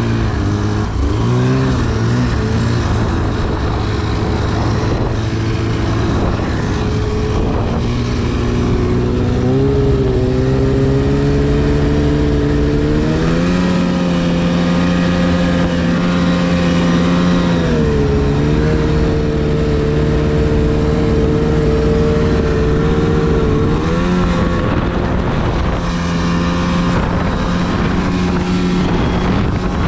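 2010 Arctic Cat CFR 1000 snowmobile's two-stroke twin running under varying throttle while riding through deep snow: the engine pitch climbs about a third of the way in, holds high, dips for a moment and climbs again later.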